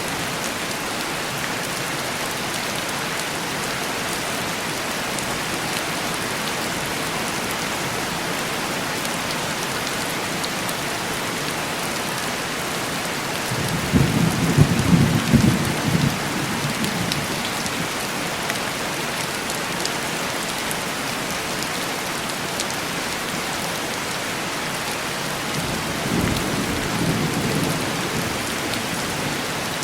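Steady heavy rain, with a roll of thunder about halfway through and a second, softer rumble of thunder near the end.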